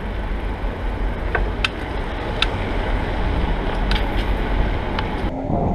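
Bicycle riding noise: a steady low rumble of wind on the microphone, with a few sharp clicks and rattles from the bike. The hiss thins out shortly before the end.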